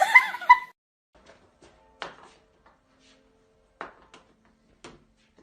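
A cat's wavering meow that ends within the first second, followed by three faint knocks spread over the next few seconds.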